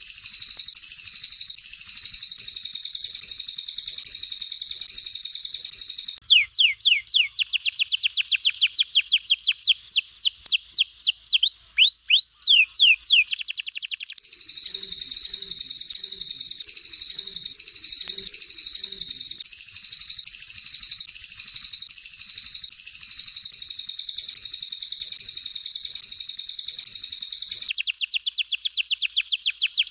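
Recorded songs of a domestic canary and a cililin taking turns. A dense, rapid, very high trilling gives way about six seconds in to a fast run of downward-sweeping whistles. The trilling returns at about fourteen seconds, and the whistle run comes back near the end.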